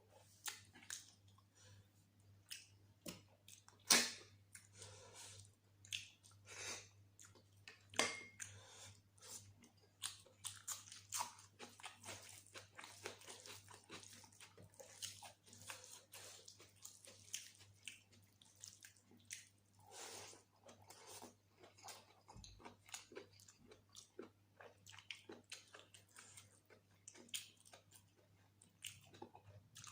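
A person chewing and biting mouthfuls of mutton curry and rice close to the microphone: a steady run of short wet clicks and crunches, with the loudest bites about four and eight seconds in.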